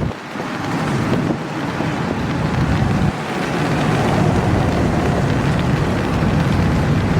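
Long intermodal freight train rolling slowly past: a steady rumble of wheels and cars, with wind buffeting the microphone.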